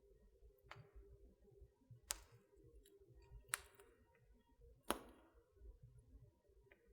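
Wood fire crackling in a fireplace: four sharp pops about a second and a half apart, over a faint low rumble of the flames.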